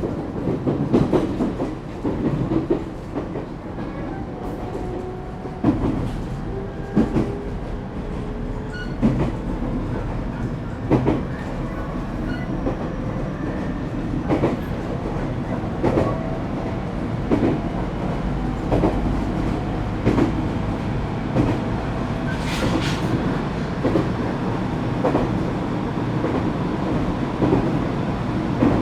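Echigo Tokimeki Railway ET127 series electric train running between stations, heard from inside the car: a steady rumble with the wheels clicking over rail joints about every second and a half, and thin tones from the Toyo GTO-VVVF inverter and traction motors, some rising in pitch.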